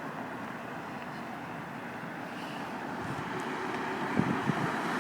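Street traffic: a car approaching and growing louder toward the end, over a steady outdoor hum, with a few low thumps about four seconds in.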